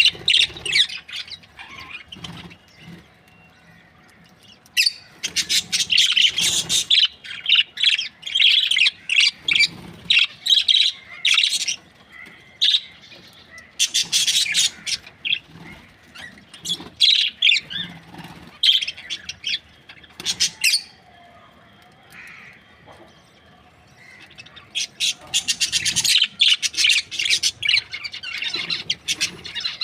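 Budgerigars chirping and squawking in rapid, high-pitched chatter that comes in several bursts, with short quieter lulls between them.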